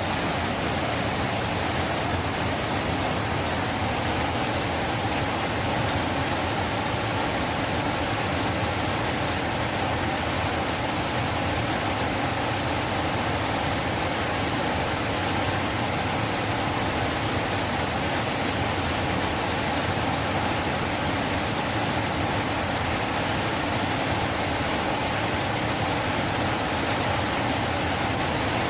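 River water rushing past in a steady, unbroken flow.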